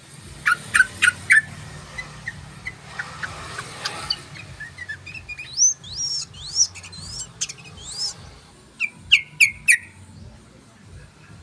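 Yellow-vented bulbul (trucukan) calling: a quick group of sharp chirps near the start, a run of rising-and-falling whistled notes in the middle, and another cluster of sharp chirps near the end.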